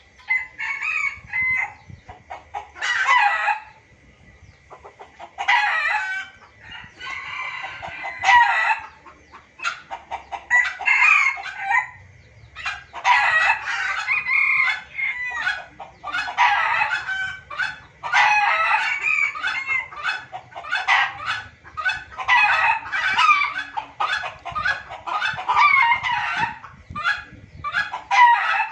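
Junglefowl crowing and clucking in a noisy run of overlapping calls, spaced out at first and almost continuous from about five seconds in: a lure recording used to draw wild junglefowl.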